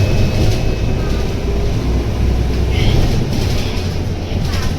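Scania K230UB city bus running, heard from inside the cabin: a steady low rumble from its Scania DC9 diesel engine and the road, with light rattles and clicks.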